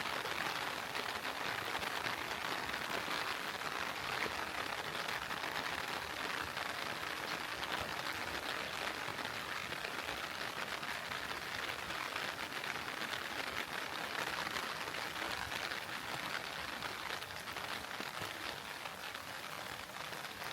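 Heavy rain falling steadily: a dense, even patter of many small drops.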